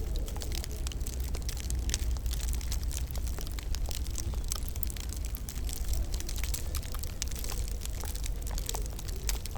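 Wood fire in a fireplace crackling: dense, irregular small pops and snaps over a steady low rumble.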